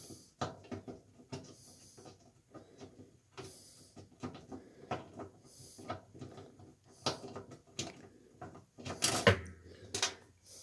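Hands working at a top-load washing machine's lid switch and its cable: irregular clicks, taps and rustling of plastic and metal parts, with a louder knock about nine seconds in.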